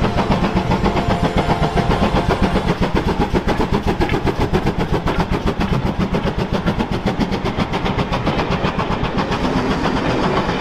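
Railway locomotive running, its sound pulsing in an even, fast beat of about seven strokes a second.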